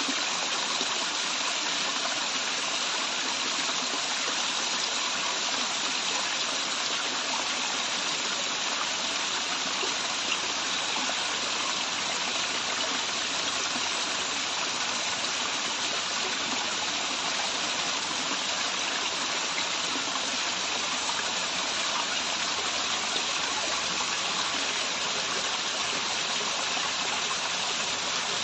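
Steady rush of water from a waterfall and its stream, an even hiss with no breaks.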